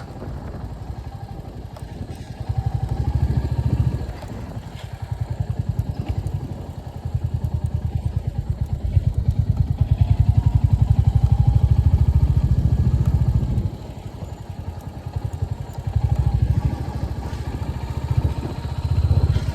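Royal Enfield Hunter 350's single-cylinder engine running under way, its even exhaust beat growing louder in three stretches as the throttle opens and easing off in between.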